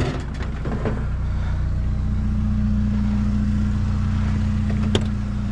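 Truck engine running steadily with an even hum, a single short click about five seconds in.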